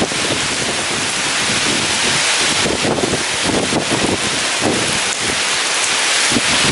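Heavy rain pouring in a storm with strong wind, a dense steady hiss full of fine crackling drop impacts.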